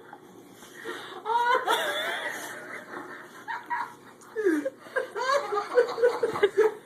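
A person laughing, with quick bursts of laughter over the last two seconds.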